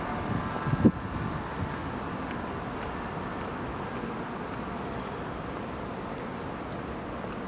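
Steady rushing background noise, with a brief louder sound just under a second in.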